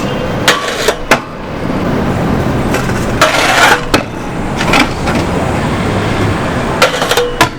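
Stunt scooter wheels rolling over pavement with a steady rumble, broken by several sharp clacks of the scooter hitting the ground and a harsher scrape of about half a second a little past three seconds in.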